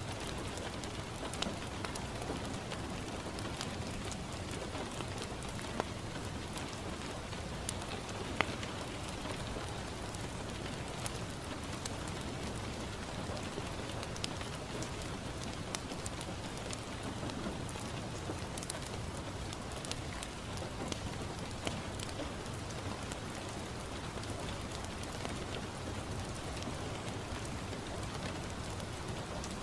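Steady rain falling on a window, an even rushing patter, with scattered sharp crackles and pops from a wood fire in a fireplace, a few louder ones standing out.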